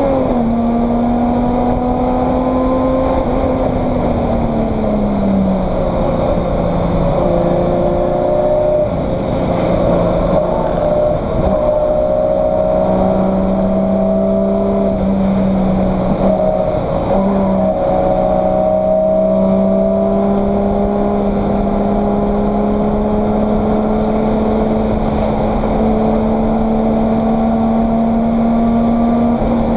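Race car engine running at speed, heard from inside the stripped, roll-caged cabin. Its note falls in pitch near the start, again about four to five seconds in, and briefly around seventeen seconds, then climbs slowly.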